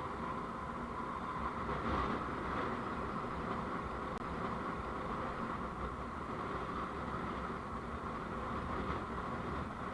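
Steady road and engine noise of a moving vehicle, a continuous rumble and hiss with no distinct events.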